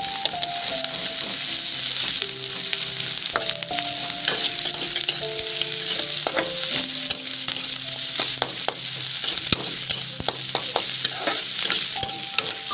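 Onions and chillies sizzling steadily in hot oil in a metal wok, with a spatula stirring and clicking against the pan. A faint tune of held notes runs underneath.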